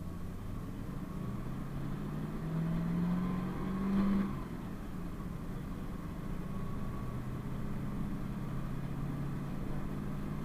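PAZ-32054 bus engine pulling away, its pitch rising for a few seconds. About four seconds in there is a short clunk and the pitch drops, as at a gear change. The engine then runs on steadily.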